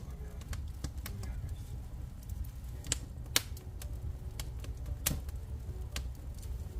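Wood fire crackling in a fireplace: irregular small pops and clicks over a low steady rumble, with a few louder snaps about three seconds in and again around five seconds.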